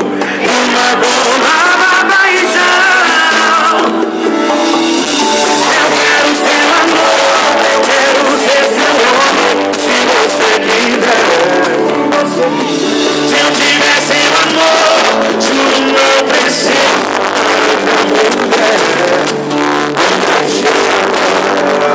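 Live sertanejo band music with a sung vocal line over guitars and drums, loud and continuous, with thin bass.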